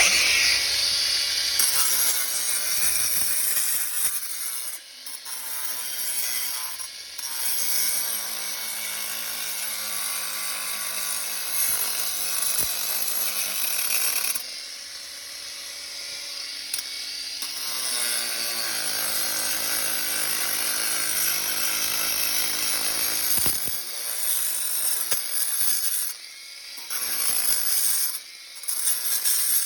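Angle grinder cutting into concrete, grinding out a crack into a V-groove. The high-pitched motor sags and recovers in pitch under load, easing off briefly several times as the disc is lifted.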